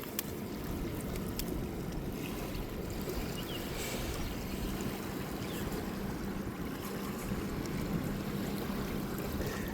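Steady low outdoor rumble with no distinct events, and a faint steady hum that comes in about halfway through.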